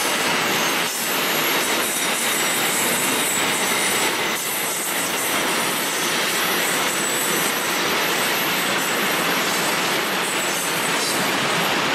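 Freight train of empty stake flat wagons rolling past at steady speed: a continuous loud noise of steel wheels on the rails and rattling wagons, with a faint high squeal running through it.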